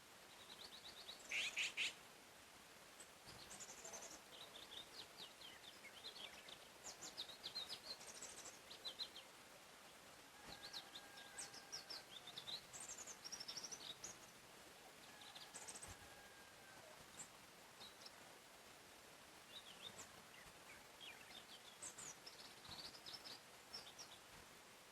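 Several songbirds chirping and trilling, short high calls coming every second or so over a faint steady background hiss, with one louder call about a second and a half in.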